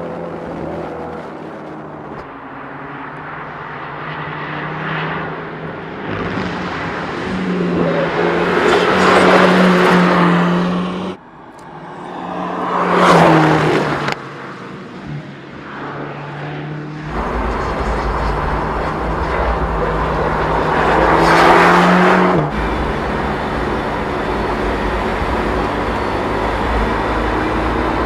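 Mercedes-AMG GT Black Series twin-turbocharged V8 exhaust on track: the car passes several times, its engine note swelling as it nears and falling away. The loudest pass comes about halfway through, and another near the end cuts off suddenly.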